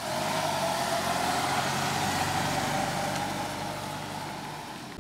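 A 1994 Plymouth sedan's engine running as the car pulls away and drives off, a steady drone with a whine that slowly drops in pitch and fades as the car moves away.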